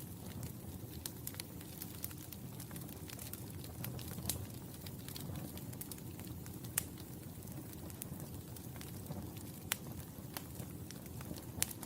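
Wood fire burning in a fireplace: a steady low rumble of flames with scattered sharp pops and snaps, a few of them louder than the rest.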